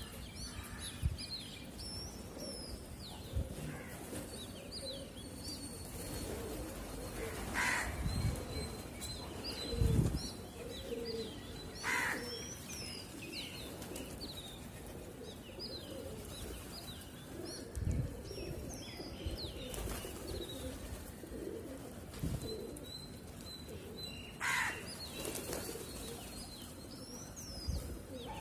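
Pigeons cooing, with brief flurries of wing flaps as birds take off or land, over steady high chirping of small birds.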